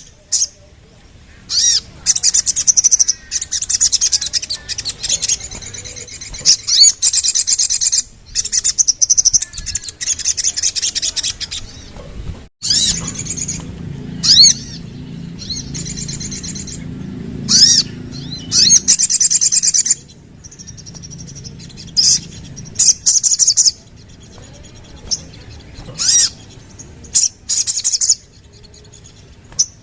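Sogon (sogok ontong) songbird singing: repeated rapid, high-pitched trilling phrases of one to three seconds each, broken by short pauses and single sharp chirps.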